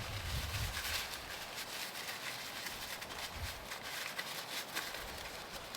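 Rain pattering steadily on a tarp, a constant hiss full of fine irregular ticks, with a few low thumps near the start and again about three and a half seconds in.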